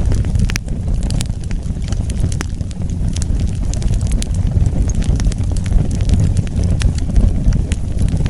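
Wood fire burning with a steady low rumble of flames and frequent sharp, irregular crackles and pops.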